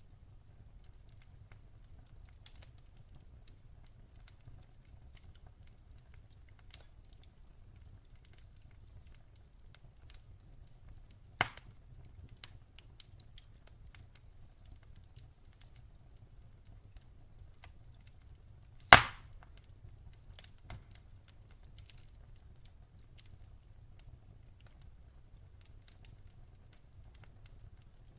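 Wood campfire crackling: sparse small ticks and snaps over a faint low rumble, with two sharp loud pops, one a little before halfway and one about two-thirds through.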